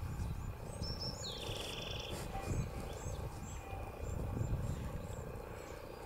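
Small birds chirping: short high chirps repeated about twice a second, with a brief buzzy trill a little over a second in, over a low rumbling noise.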